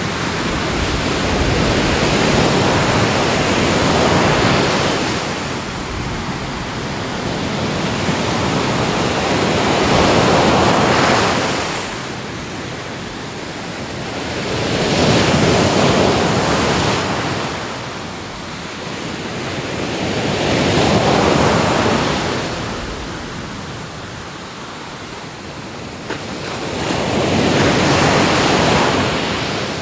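Ocean surf: waves wash in one after another, the rushing noise swelling and falling back about every five to six seconds.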